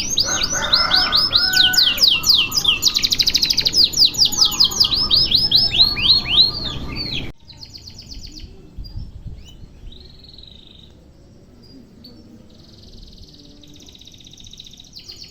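Domestic canary singing loud, fast trills and runs of repeated swooping notes. About seven seconds in the loud song cuts off abruptly, and a much fainter, sparser canary song carries on.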